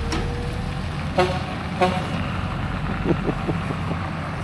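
An engine running steadily with a low hum. Two short, loud, sharp sounds with a brief ring come about a second in and again just after, followed by a few lighter knocks.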